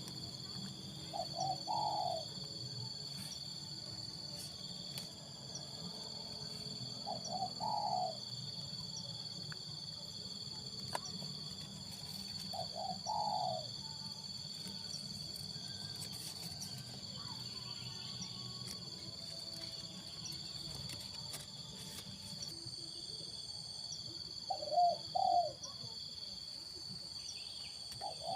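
Spotted dove (tekukur) cooing: short rolling coo phrases repeated every few seconds, five in all with a longer pause in the middle, over a steady high-pitched insect drone.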